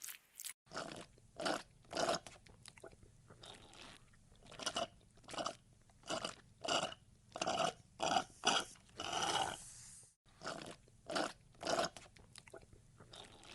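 A monkey chewing crunchy fruit in close-up: a run of wet, crunching bites and chews, roughly one every half second to a second, with a short break about ten seconds in.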